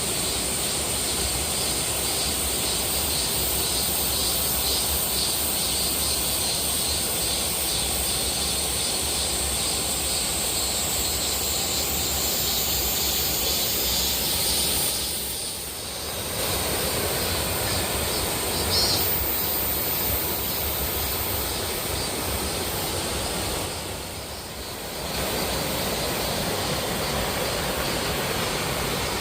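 Steady rush of a waterfall's falling water, dropping away briefly about halfway through and again a few seconds before the end.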